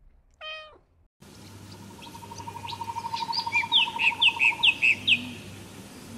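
A cat's single short meow, then birdsong: a run of quick, descending chirps, the loudest sound, over a steady pulsing trill and a faint background hiss.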